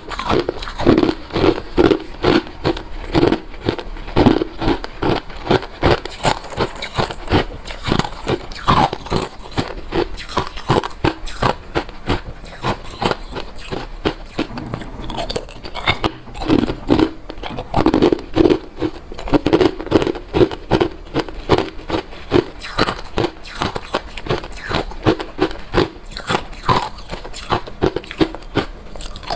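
Close-miked chewing of hard refrozen crushed ice: a steady run of sharp, crackling crunches, several a second, as the ice is bitten and ground between the teeth.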